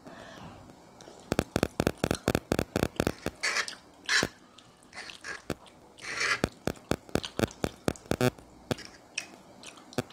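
Close-up eating sounds from a mouthful of spicy instant noodles: a quick run of wet smacking clicks from chewing, about three or four a second. Two short airy hisses come in between.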